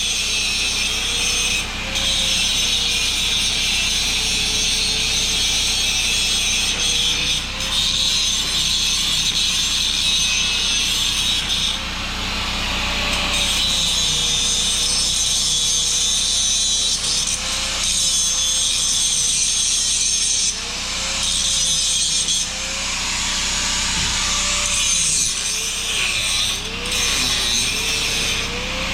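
Angle grinder grinding steel, taking off a failed patch weld on a broken hydraulic tilt-cylinder bracket. Its hum wavers up and down as the load on the disc changes, and it breaks off briefly several times as the disc is lifted and set back on the metal.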